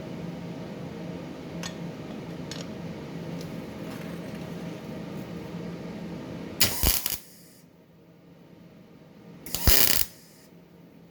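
Sherman 200M MIG welder: a steady hum with a few faint ticks, then two short, loud crackling bursts of welding arc, about 7 and 10 seconds in, like quick tack welds.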